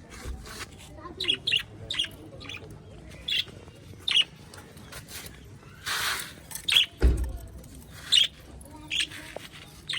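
Aviary of small Australian parrots calling: many short high chirps and squawks, with a longer harsh call about six seconds in. A low thump just after seven seconds.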